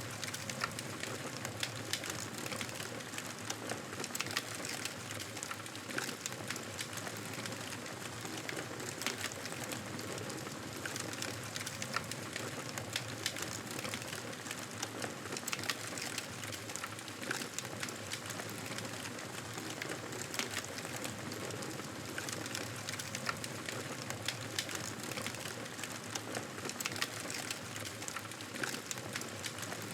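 Wood fire crackling in a fireplace: a steady hiss dotted with frequent, irregular sharp pops and snaps.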